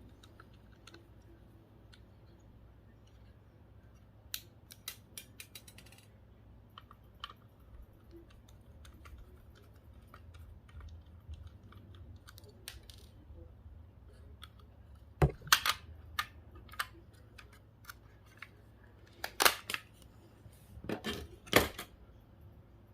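Sharp clicks and clinks of hand tools and small metal and plastic electronic parts being handled during disassembly. They come in scattered clusters: about four seconds in, about fifteen seconds in, and again near the end.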